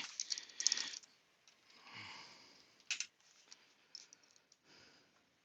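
Faint clicks and light taps of small parts and tools being handled, the sharpest click about three seconds in.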